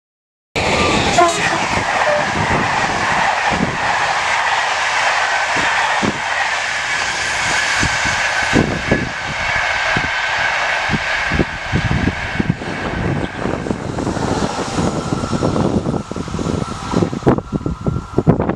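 Train running past on the main line: a steady rushing noise with wheels knocking irregularly over the rail joints. The hiss thins out in the last few seconds.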